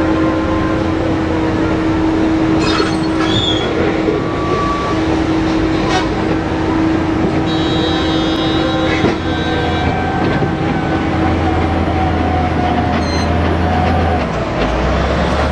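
Heavy mining dump truck running steadily, a constant low rumble with a steady whine over it, and a few brief clicks.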